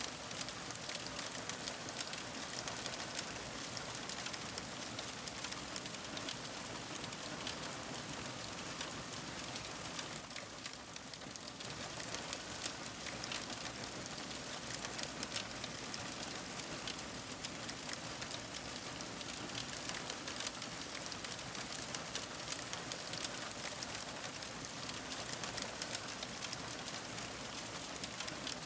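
Crackling fire: a dense, continuous stream of small pops and snaps over a soft hiss.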